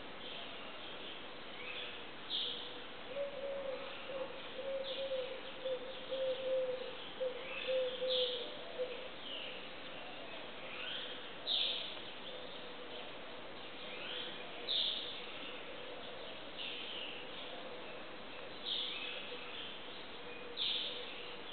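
Songbirds singing: short, bright, falling chirps repeated every second or two. Under them runs a steady low tone, which wavers and grows louder between about three and nine seconds in.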